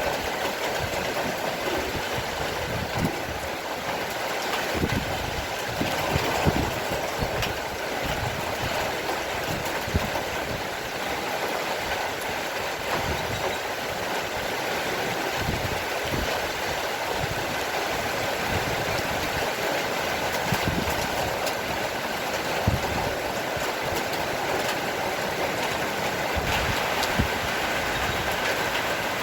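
Heavy rain shower falling steadily, with scattered sharper drips and splashes through the steady hiss.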